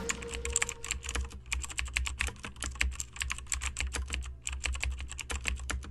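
Typing on a computer keyboard: quick, irregular key clicks, several a second, with a brief pause about four seconds in, over a faint low hum.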